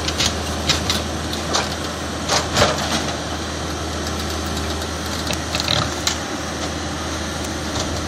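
Backhoe engine running steadily, with scattered cracks and crunches of wood breaking as the machine tears into a building's walls.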